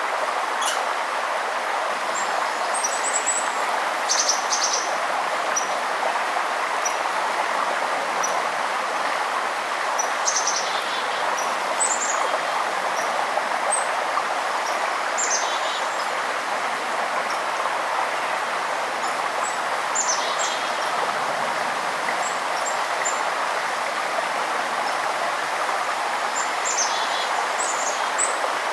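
Steady rush of running river water, with small birds giving brief high chirps every few seconds over it.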